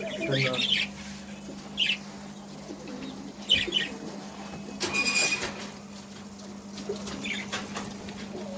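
Caged birds chirping in short calls every second or two, with wings fluttering, over a steady low hum.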